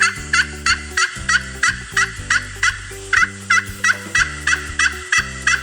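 Turkey gobbling: a long run of short, quick calls, about four a second.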